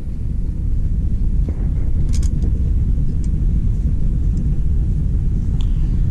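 Steady low rumble, with a few light metallic clicks of a wrench on the engine about two seconds in.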